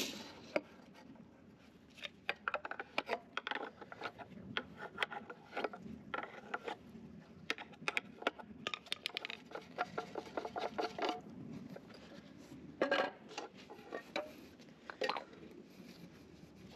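Hand tools and hard parts being handled: irregular clicks, taps and knocks mixed with rubbing and scraping. The clicks come thickest through the middle, with a few sharper knocks near the end.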